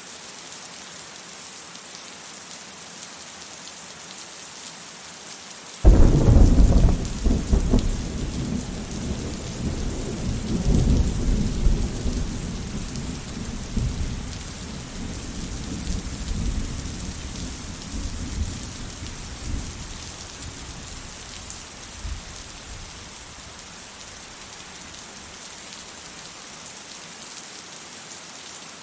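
Steady rain hissing, with a sudden clap of thunder about six seconds in that rolls and rumbles, slowly dying away over some fifteen seconds.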